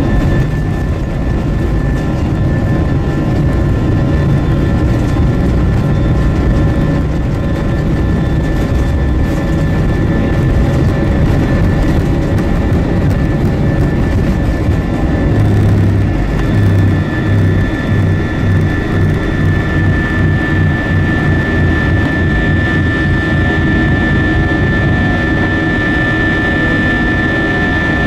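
Cabin noise of an Airbus A320-232 in flight: its IAE V2500 turbofans run steadily, with a constant high whine over a low rumble and some uneven low thumping about halfway through.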